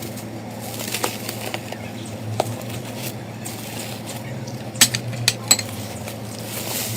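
Slime being handled: light crackling with scattered small clicks and a few sharp, loud clicks about five seconds in, over a steady low hum.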